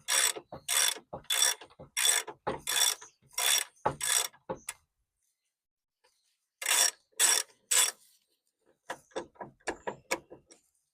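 Socket ratchet clicking in repeated back-and-forth strokes, about one and a half a second, as a 13/16-inch bumper mounting nut is backed off. The strokes pause about halfway, then three more come, followed by a few lighter clicks near the end.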